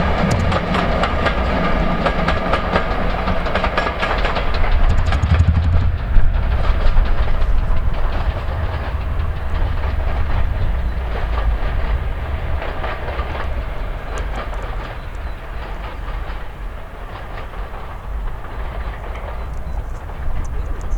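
Steam-hauled train passing, its wheels clattering over the rail joints in a steady run of clicks over a rolling roar. The sound eases off in the second half as the train draws away.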